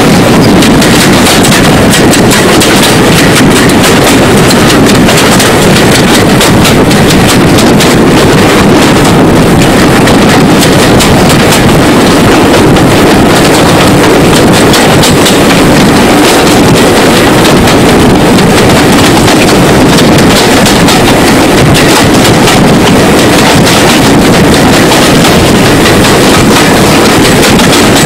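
Steady, very loud rumble of a moving train mixed with wind buffeting the microphone, overloading the recording, with no distinct exhaust beats.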